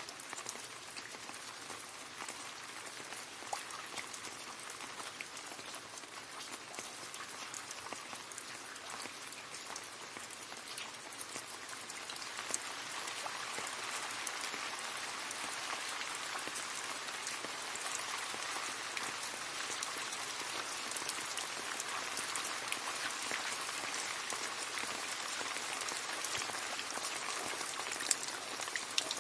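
Rain falling into a puddle: a dense patter of drops splashing on water, growing heavier about twelve seconds in.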